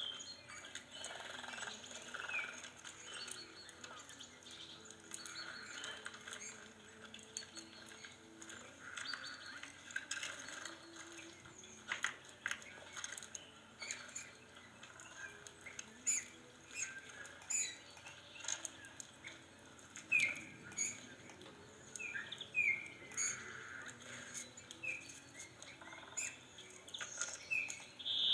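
Birds chirping: many short, quick, downward-sliding chirps, more frequent in the second half, with scattered sharp clicks among them.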